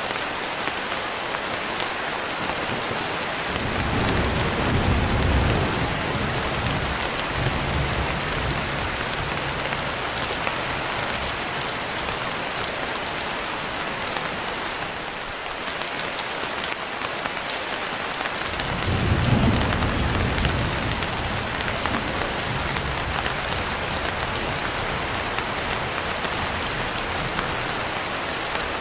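Steady heavy rainfall, with two rolls of thunder rumbling low under it, one about four seconds in and one a little past the middle.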